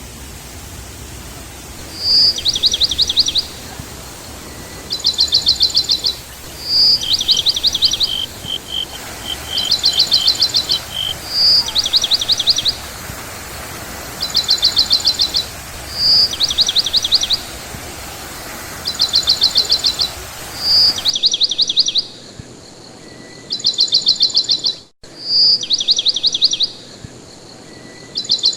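A songbird repeating one short song about every two seconds: a single clear high note followed by a fast trill. A steady background hiss drops away about two-thirds of the way through.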